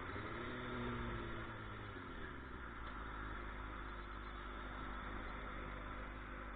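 A vehicle engine running with road noise, its pitch swelling and easing slightly in the first couple of seconds before settling steady; the sound cuts off abruptly at the end.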